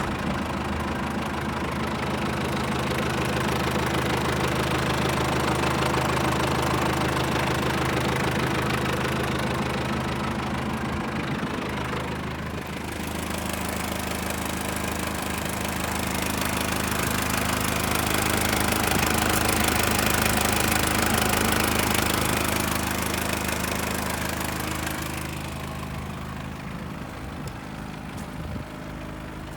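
Mitsubishi Canter's 4M40 four-cylinder diesel engine idling steadily, with the sound dipping slightly in loudness twice.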